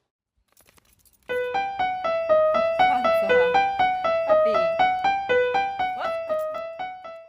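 Piano melody: a steady run of single notes, about two or three a second, starting about a second in and ending just before the next clip.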